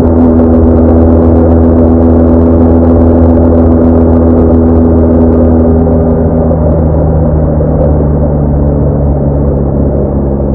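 BMW R1200R boxer-twin motorcycle engine running at a steady road speed, with wind rush over it. The engine note eases off a little about six seconds in.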